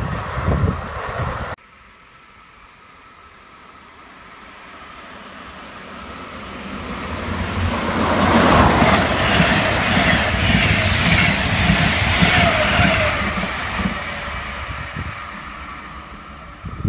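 A train passes on the main line: the sound builds from a faint approach to its loudest for several seconds, with rolling wheel rumble and rail noise, then fades as it moves away. A different, louder noise cuts off abruptly about a second and a half in.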